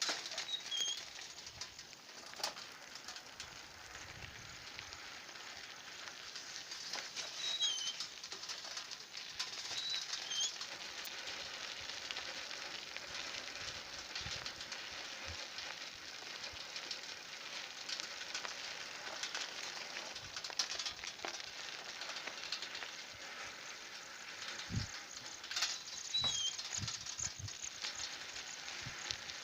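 Outdoor ambience: a steady hiss with short, high bird chirps a few times, and a few faint low knocks near the end.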